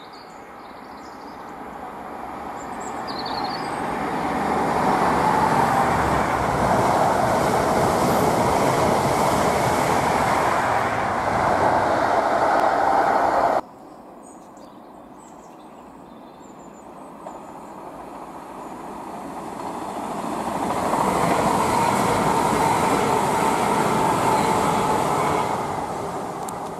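Two trains passing along the line, each building from a distant rumble to a loud, steady running noise as it nears. The first cuts off suddenly about halfway through; the second, a GWR Intercity Express Train (Class 800 series), swells again and is fading when it too cuts off at the end.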